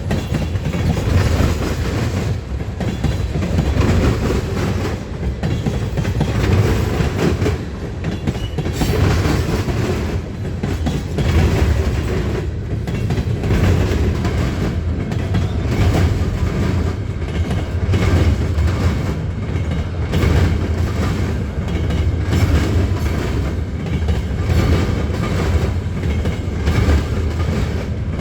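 A train rolling past close by: a steady heavy rumble, with the rail cars' wheels clicking over rail joints at a regular beat.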